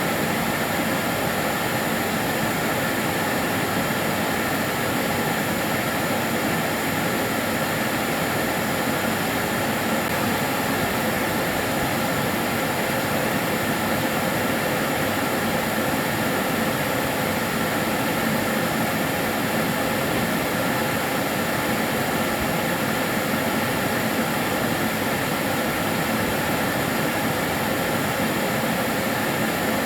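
Karcher DS 6 Premium water-filter vacuum cleaner running steadily, a constant even whoosh of its motor and airflow with a faint steady whine over it.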